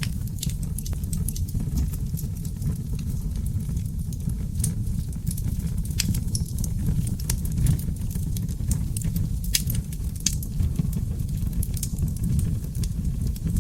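Wood fire burning in a fireplace: a steady low rumble of flames under frequent irregular crackles from the seasoned oak logs, with a few sharper pops scattered through.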